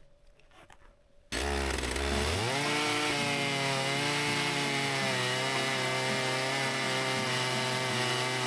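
The chainsaw powering a Panther Horizon 80-inch chainsaw mill with a 74-inch bar starts sounding suddenly about a second in. Its engine note climbs as it is throttled up, then runs steadily at high revs.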